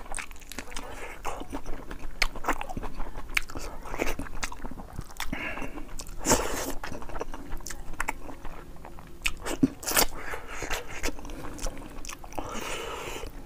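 Close-miked chewing of boiled fish head and rice eaten by hand: a steady run of short mouth clicks and smacks, with louder ones about six and ten seconds in.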